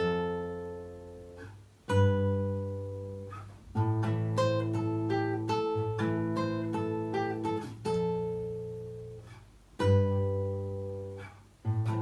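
Acoustic guitar playing a song intro in A minor. Chords are struck about every two seconds and left to ring out and fade, with a run of picked single notes in the middle.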